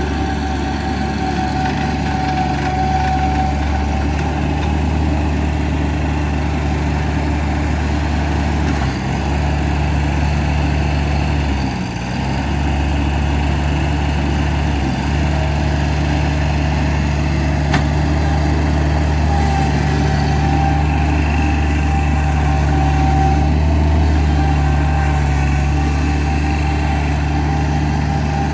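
Diesel engine of a Bobcat MT100 mini track loader running steadily, its pitch dipping briefly three times, about nine, twelve and fifteen seconds in.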